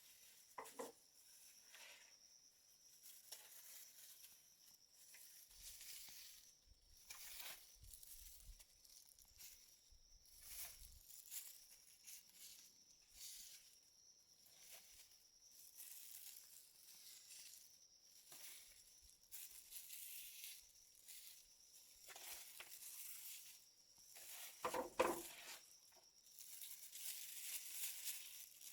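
Faint, irregular rustling and crinkling, with a short knock about a second in and a louder knock near the end.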